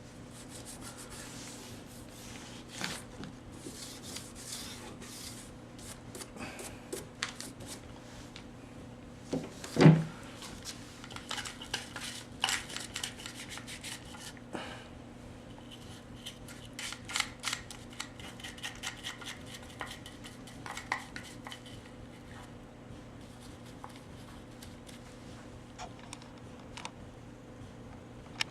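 Metal tool scraping and clicking against a chainsaw guide bar, irregular rubbing and ticks as packed sawdust is cleared from the bar's groove and oil holes, with one louder knock about ten seconds in. A faint steady hum runs underneath.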